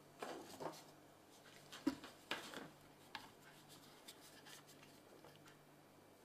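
Faint handling noises: a few short scrapes and clicks, with a sharper knock about two seconds in, over a low steady hum.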